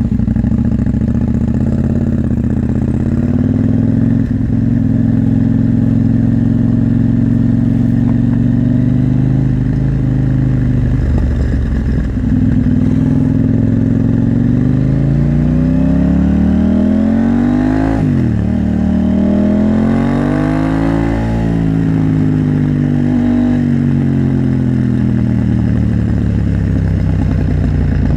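KTM 890 Duke R's parallel-twin engine running, steady at first. Past the middle, the engine note climbs in pitch, drops suddenly, climbs again, then falls back and settles into a steady note.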